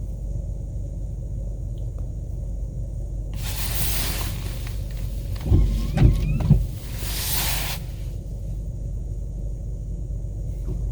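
Car driving on a snowy road, heard from inside the cabin: a steady low rumble of engine and tyres. A hiss swells up about three seconds in and fades out about eight seconds in, with a few short thumps in the middle.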